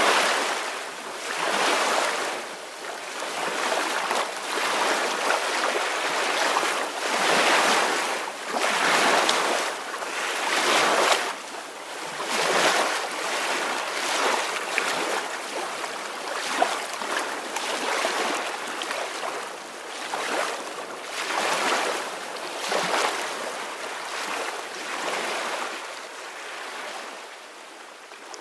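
Ocean waves washing ashore, a steady hiss of surf that swells and fades every second or two, with a few louder surges and a quieter stretch near the end.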